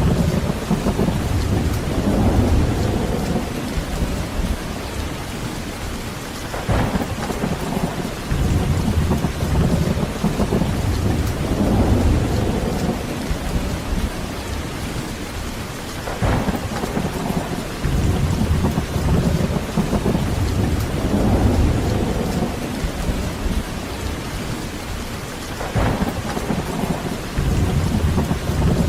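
Heavy steady rain with rolling thunder rumbling low and swelling in waves. Three sharper thunderclaps come about every nine or ten seconds.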